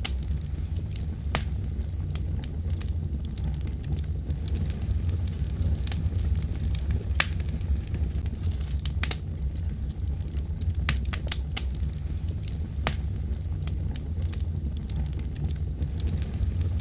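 Wood fire burning with a steady low rumble and irregular sharp crackles and pops, a quick cluster of them about eleven seconds in.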